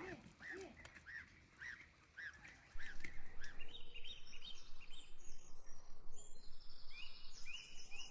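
Birds chirping in short repeated calls about twice a second, with a couple of low calls near the start. About three seconds in, a louder steady noise comes in under higher, quicker chirping.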